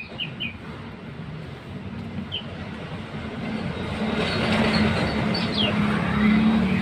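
Small birds chirping in short high notes over a loud, steady rumbling noise with a low hum, which grows louder about halfway through.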